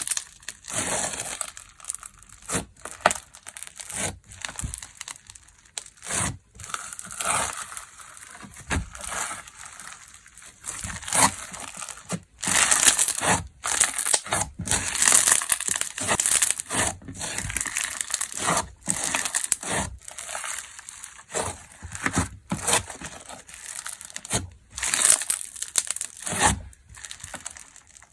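Hands squeezing and pressing a TAMR 'fu-gashi' slime, a run of irregular squishing, crackling presses with short pauses between them.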